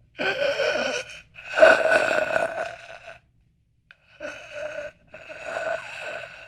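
A person's voice making four drawn-out, breathy gasps. The second is the longest and loudest, and the last two are quieter.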